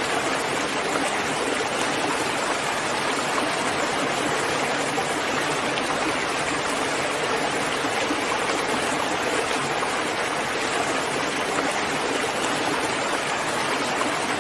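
Steady, even hiss of heavy rainfall, with no separate drops or thunder standing out.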